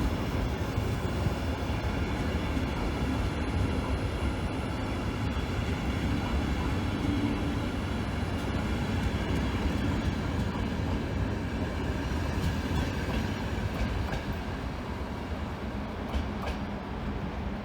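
A train running on the tracks: a steady rumble with a faint whine and a few wheel clicks, easing off slightly near the end.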